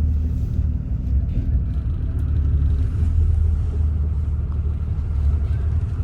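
Steady low rumble of a road vehicle driving, its engine and road noise heard from inside the cabin.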